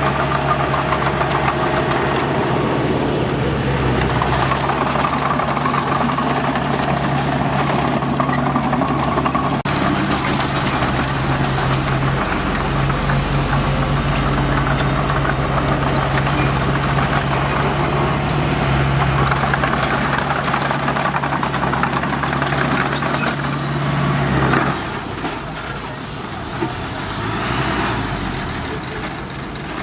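Heavy diesel engine of earthmoving equipment running steadily under load with a low, even drone. About 25 seconds in, the engine note drops and it runs quieter.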